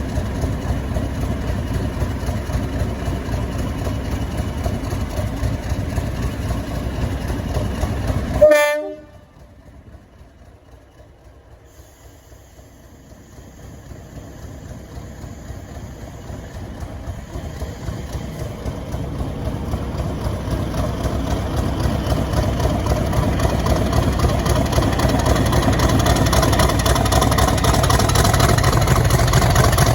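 Heritage diesel locomotive engine running with a steady low rumble, then a short, loud horn blast about eight seconds in. After a sudden break the sound of a diesel train builds up steadily as it approaches and grows louder.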